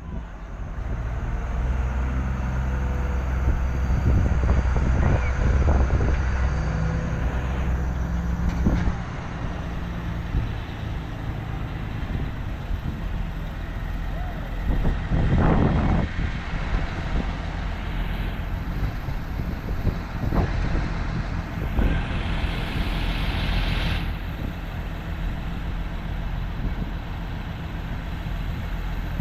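Tractor engines running steadily as tractors drive by, louder for the first several seconds, with a short hiss about halfway through.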